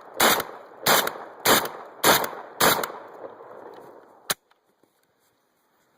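Saiga-12 semi-automatic 12-gauge shotgun firing birdshot in rapid succession: five shots about 0.6 seconds apart, each cycling and feeding the next shell without a stoppage. A single sharp click follows a little over a second after the last shot.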